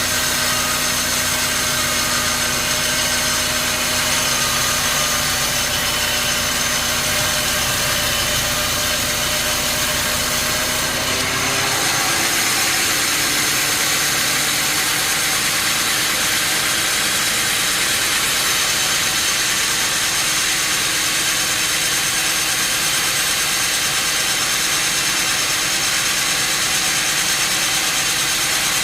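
Sawmill machinery running steadily: a motor's hum with a high whine. About twelve seconds in, the low rumble drops away and the pitch shifts as the machine changes speed or load.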